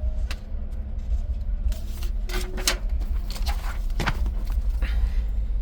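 Paper pages of a printed track-chart booklet being handled and turned: a few short rustles and crackles, over a steady low rumble and hum.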